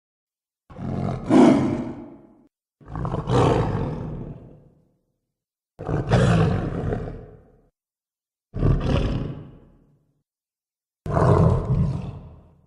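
Cave troll creature sound effect: five separate calls, each about two seconds long, starting suddenly and trailing off, with dead silence between them.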